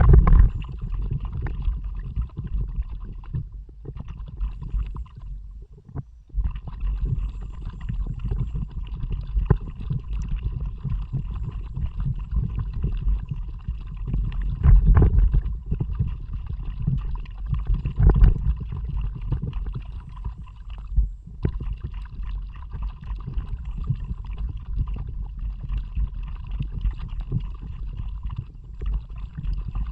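Kayak paddling heard through an action camera's microphone: a low, uneven rumble of wind and water buffeting the mic, with louder surges about halfway through and brief drops.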